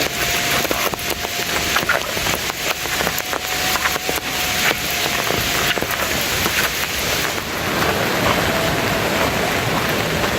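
Heavy rain falling steadily, a dense hiss with many sharp drop hits throughout.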